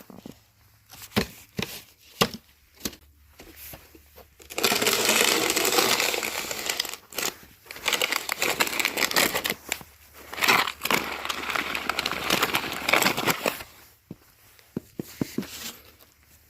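Wet snow being scraped and crunched in two long stretches of several seconds each, with scattered sharp crunches and clicks before and after.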